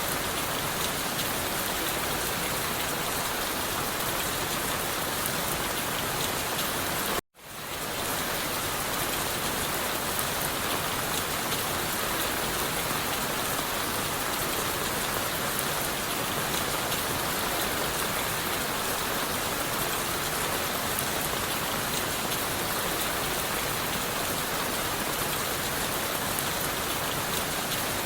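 Steady rain falling on leaves and wood. About seven seconds in, the sound cuts out abruptly for a moment and fades back in.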